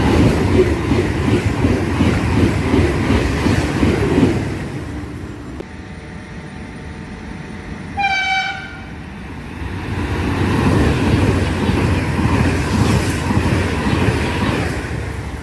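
Trains passing through a station with loud rolling rail noise. About eight seconds in, a short horn toot sounds and falls slightly in pitch, before a second stretch of train noise builds and runs to the end.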